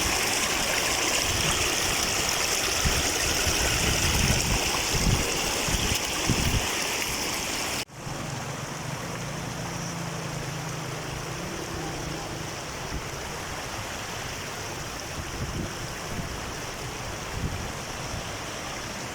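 Rushing water of a mountain waterfall and stream, a steady noise. About eight seconds in it cuts abruptly to a quieter stretch of the same kind of water noise.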